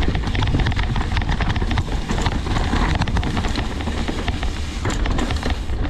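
Mountain bike riding down a dirt trail: wind rushing over the microphone, tyres rolling over the ground and a steady stream of small rattles and clicks from the bike over rough terrain.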